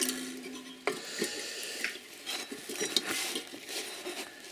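Scraping and light clinking of metal: hand tools working at the mounting springs and casing of a refrigerator compressor.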